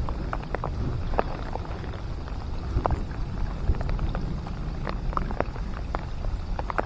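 Rain falling, with scattered drops tapping sharply close at hand at irregular intervals over a steady low rumble.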